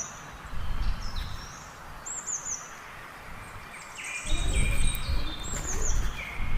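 Bird chirps repeating every few seconds over a steady background of outdoor noise, with a low rumble coming in about four seconds in.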